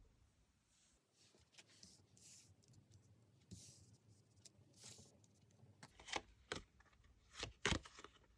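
Faint handling of tarot cards: soft swishes of cards sliding and a few short taps and flicks, the sharpest ones near the end.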